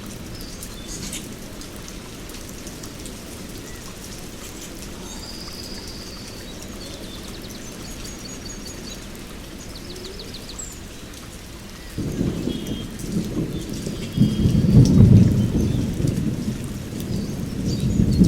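Heavy rain falling steadily, with a rumble of thunder that comes in suddenly about two-thirds of the way through and is loudest a few seconds later.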